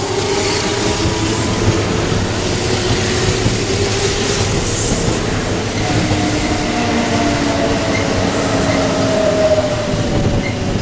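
Kintetsu electric train running along the track at a station: a steady rumble of wheels on rails under a whine that slowly shifts in pitch.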